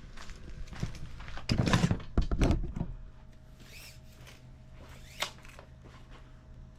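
Knocking and clattering of materials being handled, loudest from about one and a half to three seconds in, with a single sharp click near the end and a faint steady hum underneath.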